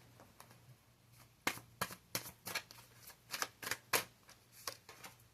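Tarot cards being shuffled by hand: an irregular run of short, sharp card snaps, starting about a second and a half in.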